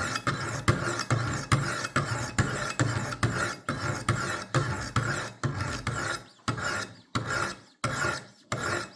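Diamond stones of a Wicked Edge WE60 guided knife sharpener rasping along a steel knife edge under light pressure, in quick strokes of about three a second. The strokes thin out with short pauses near the end.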